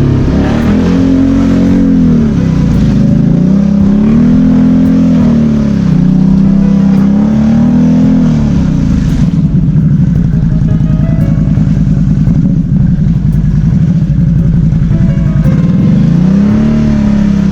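BRP Outlander 650 ATV's V-twin engine working through mud, revved up and down again and again. After about nine seconds it holds a steady pitch for several seconds, then revs up and down once more near the end.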